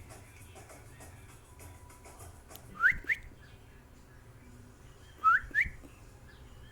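Cockatiel whistling: two pairs of short, quick upward-sliding whistle notes, the first pair about three seconds in and the second a little past five seconds.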